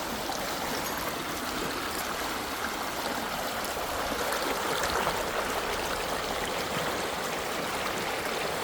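Running water of a stream, a steady rushing that stays even throughout.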